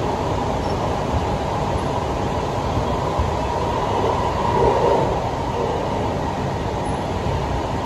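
Steady rumble of a 1995 Siemens-built C651 MRT train running, heard from inside the carriage, swelling briefly a little past the middle.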